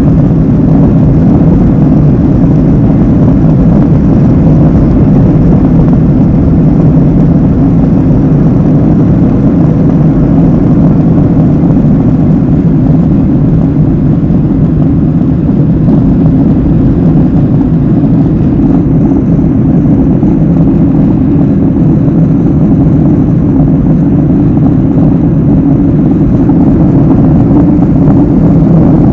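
Airliner's jet engines running at high takeoff thrust: a loud, steady, low-pitched rumble. The upper hiss turns a little duller about two-thirds of the way through.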